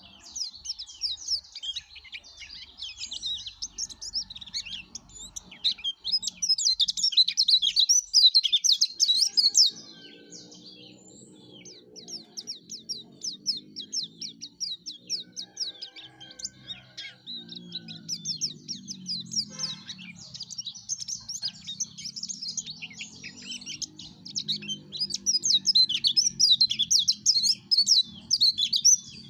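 Yellow-breasted white-eye (pleci dada kuning) singing a rapid, continuous twittering song, swelling louder twice. A faint, lower, tone-like background sound runs beneath it from about a third of the way in.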